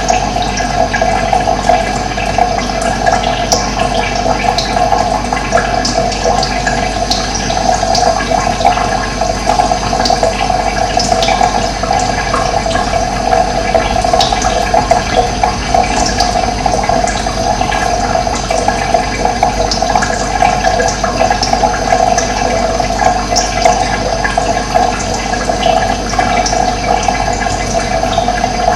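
Running water, a steady loud rush with scattered short high-pitched splashy flecks over it.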